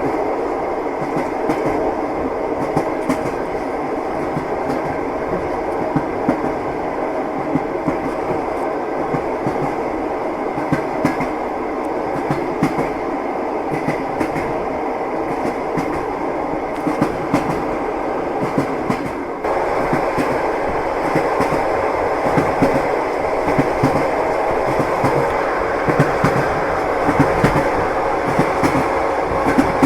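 Rumble of a moving passenger train, heard from inside the carriage, with the clickety-clack of the wheels over the rail joints. About two-thirds of the way through, the sound abruptly becomes louder and brighter.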